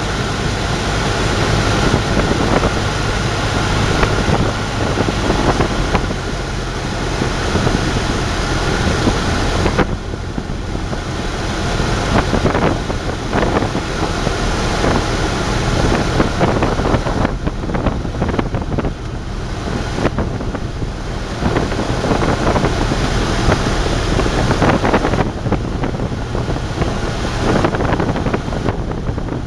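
Cessna 172's piston engine running steadily under heavy wind noise. The sound eases slightly about ten seconds in.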